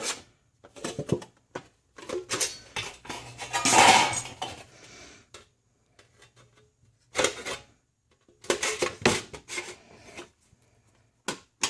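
Thin sheet metal clanking and rattling in irregular bursts as the tabs on an HVAC duct end cap are bent into shape. The loudest clatter comes about four seconds in, followed by a short pause before more clanking.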